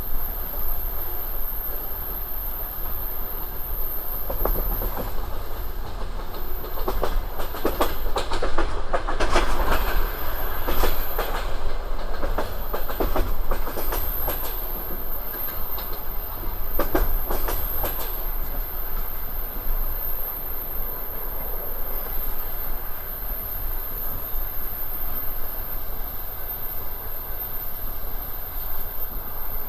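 Railway carriage wheels rolling over the track with a steady low rumble, clattering in a dense run of clicks over rail joints and switches for about the first half, then settling back to a steadier rumble.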